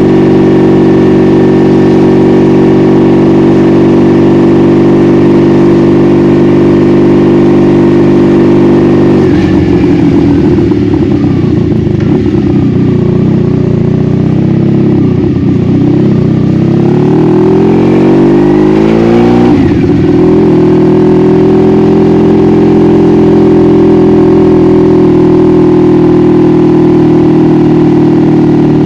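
Honda Magna V45's 750 cc V4 engine heard onboard while riding. It runs at a steady cruise, the revs drop and wander about nine seconds in, then climb in a rising pull. A short break about two-thirds through, like a gear change, is followed by steady cruising again.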